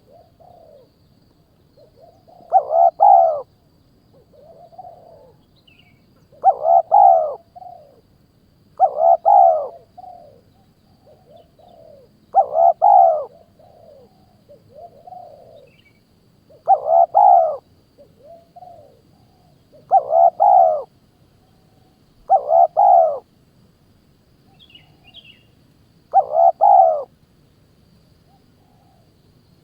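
A bird calling over and over: about eight loud short calls, each under a second, roughly every three to four seconds, with fainter shorter calls between them. It is a recorded call played to lure hawks.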